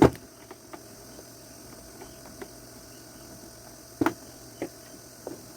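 Clicks and knocks of a screwdriver and metal screws against a fan's plastic housing as screws are taken out. The loudest knock comes right at the start, another sharp click about four seconds in and one more soon after, with faint ticks between.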